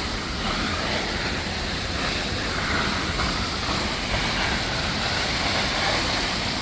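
Steady rushing of a waterfall, its water pouring down over the rock cliffs.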